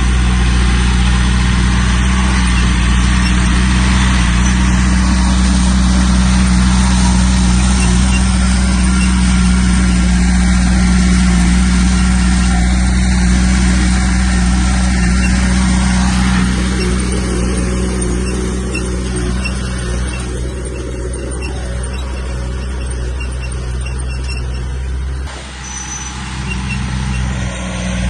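Heavy diesel earthmoving machine engine running steadily. It eases off and gets quieter after about sixteen seconds, dips briefly near the end, then picks up again.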